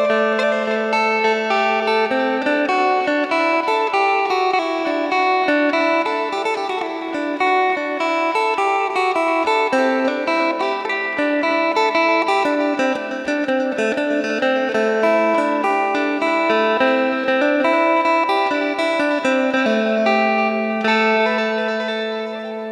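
Electric phin, the Isan Thai lute, played solo: a fast plucked melody over a steady drone note.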